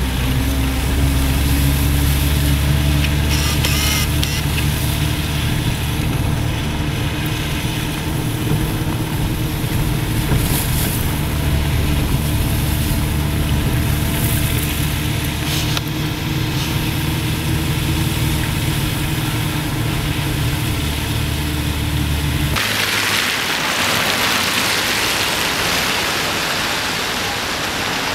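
Vehicle engine and road noise from a moving car, a steady low hum. About 22 seconds in it cuts off abruptly, and a steady hiss takes over.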